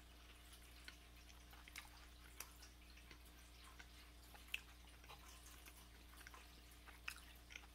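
Quiet closed-mouth chewing of a bite of buttered toast: faint, sparse wet mouth clicks, a few seconds apart, over a low steady hum.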